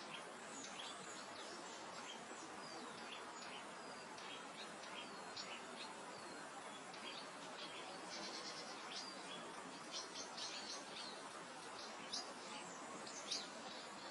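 Songbirds chirping over a steady, soft hiss of wind through grass, with a short, rapid trill about eight seconds in.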